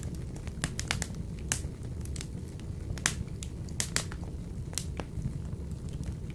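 Logs burning in a wood-burning stove: a steady low rumble of flame with sharp crackles and pops scattered throughout, a few louder pops among them.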